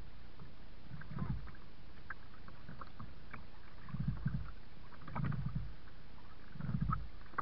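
Kayak paddle strokes: the blades dip and pull through the water several times at an unhurried pace, with small drips and splashes between strokes over a steady hiss.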